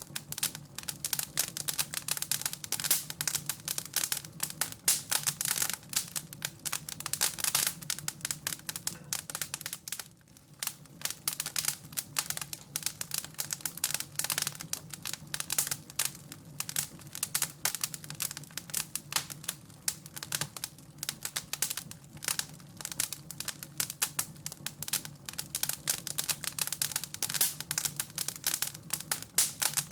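Wood fire crackling and popping in a fireplace: a dense, irregular stream of small snaps over a low steady hum, easing briefly about ten seconds in.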